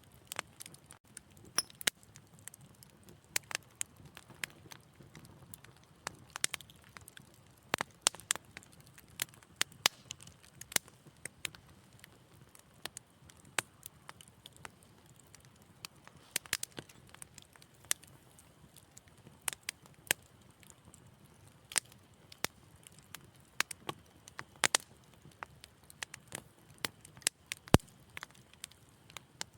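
Wood fire crackling in a fireplace: irregular sharp snaps and pops, several a second at times, over a soft low hiss, with one especially loud crack near the end.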